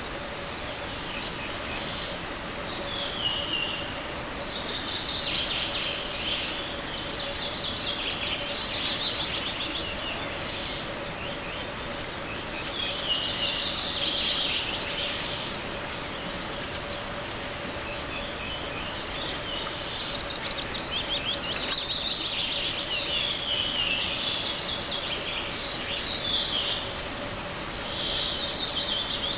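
Songbirds singing in short, trilling phrases that come every few seconds, over the steady rush of a small forest stream.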